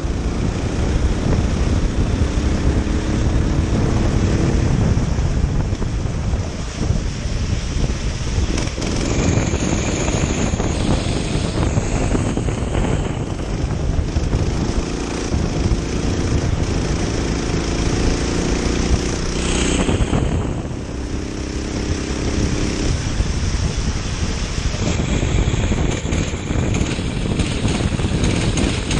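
Go-kart engine heard onboard, its note rising and falling repeatedly as it accelerates and backs off, under a steady rush of noise.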